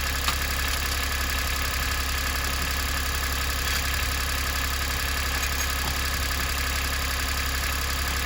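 Daihatsu Atrai Wagon's high-mileage (110,000 km) 660 cc three-cylinder engine idling steadily. The engine is known for an abnormal noise and is running on 15W-50 motorcycle oil; the owner feels it sounds a little loud.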